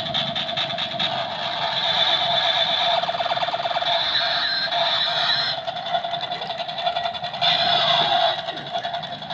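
Battery-powered toy Apache helicopter playing its electronic sound effects: a steady buzzing tone with rapid rotor-like chopping, and a few sliding siren-like tones near the end.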